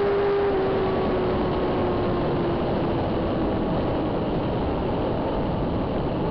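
Inline-four superbike engine heard on board while riding, its note falling slowly over the first few seconds under a steady rush of noise.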